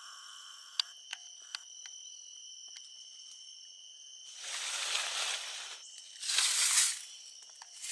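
Rainforest insect chorus: several steady high-pitched buzzing tones with a few sharp ticks. Two bursts of rustling noise break in, about halfway through and again near the end.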